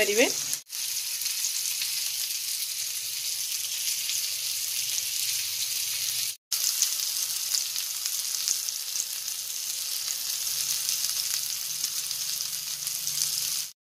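Chicken pieces frying in hot oil in a pan, a steady sizzle. The sound cuts out briefly twice, near the start and about halfway through.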